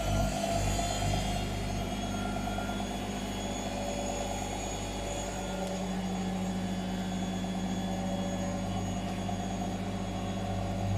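Whirlpool FL 5065 front-loading washing machine spinning at 600 rpm. The motor whine finishes rising in pitch about a second in, then holds as a steady whine and hum at full spin speed.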